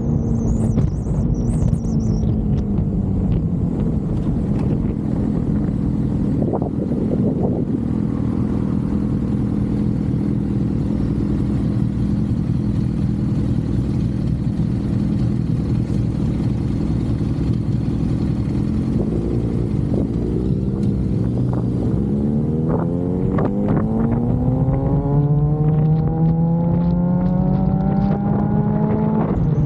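Suzuki GSX-R750 motorcycle's inline-four engine holding a steady note, then rising smoothly in pitch as it accelerates over the last several seconds.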